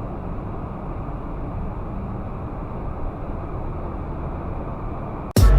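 Steady road and engine noise of a car driving. Loud electronic music cuts in suddenly right at the end.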